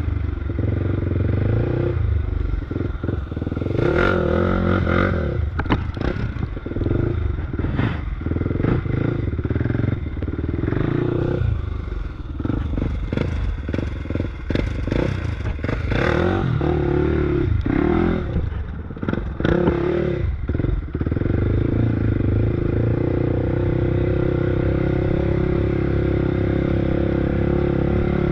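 Predator 500 single-cylinder engine on an off-road bike, revving up and down repeatedly over rough trail with clattering knocks and rattles, then running at a steadier pitch for the last several seconds.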